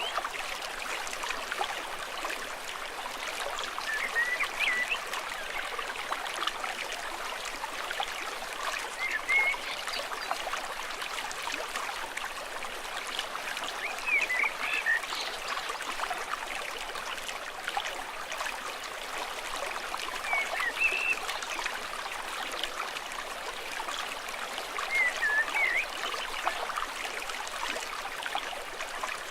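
A stream flowing and trickling steadily, with short high chirping calls repeating about every five seconds.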